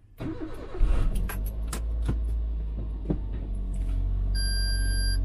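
Car engine starting about a second in and then running steadily, with several sharp clicks and a short electronic beep near the end.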